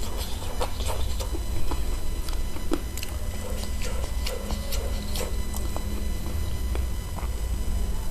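Close-miked chewing and lip-smacking on spicy chicken feet, with a steady run of small wet clicks over a low hum.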